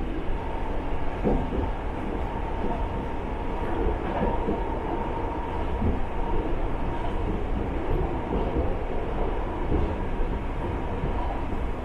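Inside the cabin of a KTR700 diesel railcar running along the line: a steady rumble of engine and running noise with a faint steady high tone, broken by irregular short knocks.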